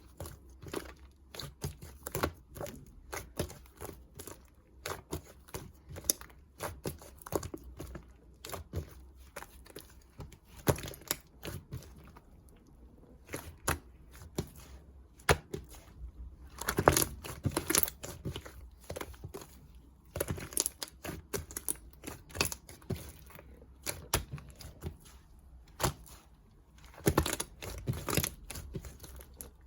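Slime being pressed, stretched and squished by hand, giving irregular sticky clicks and crackling pops, with denser runs of them about halfway through and again near the end.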